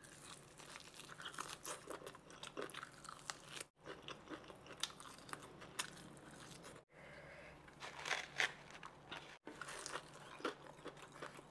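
Biting and chewing crispy sauced fried chicken wings: a steady run of sharp crunches and chewing, broken by three brief silent gaps.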